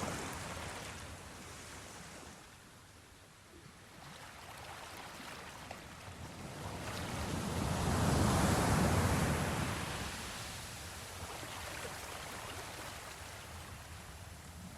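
Sea waves washing, a slow surge that fades, swells to a peak about eight seconds in, then ebbs away.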